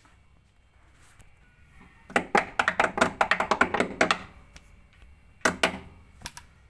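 A fast run of hard knocks and rattles for about two seconds, then a quick double knock and one more tap.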